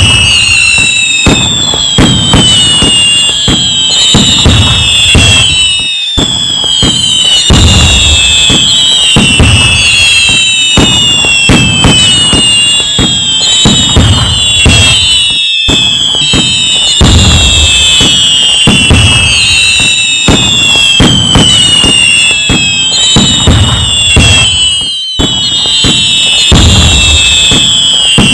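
Loud fireworks: many overlapping whistling shells that fall in pitch, mixed with dense bangs, crackling and low booms. The sound cuts out for an instant about every nine and a half seconds.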